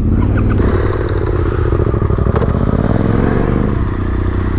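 Yamaha Ténéré 700's parallel-twin engine pulling away on the throttle, its note rising for about three seconds and then dropping suddenly near the end.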